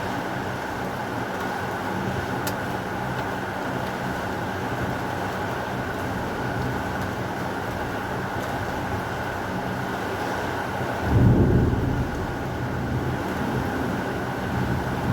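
Steady heavy rain, with a short, loud low rumble of thunder about eleven seconds in.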